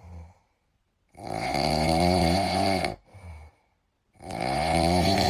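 A pet snoring: two long snores about three seconds apart, each lasting close to two seconds, with short soft breaths between them.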